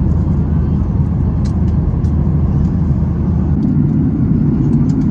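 Steady low rumble of engine and airflow noise inside a Boeing 737-800 cabin. About three and a half seconds in, the deepest part of the rumble drops away and a slightly higher hum takes over.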